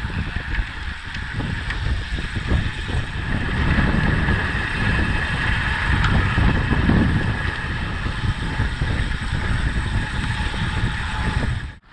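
Steady wind rush and buffeting on the microphone of a moving bicycle, mixed with road and tyre noise.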